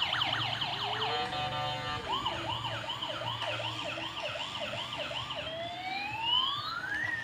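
Ambulance siren cycling through its patterns: a rapid warble, a brief steady tone, a run of quick rising whoops, then a slow wail that climbs and starts to fall near the end.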